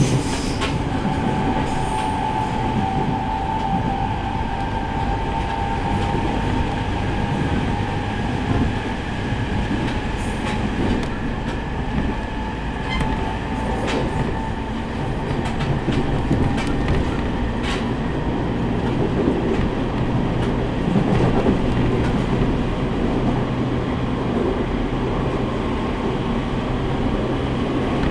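Interior running noise of a JR East E501 series electric train at speed: a steady rumble of wheels on rail with scattered sharp clicks at rail joints, and a steady motor whine that fades away over the first ten seconds or so.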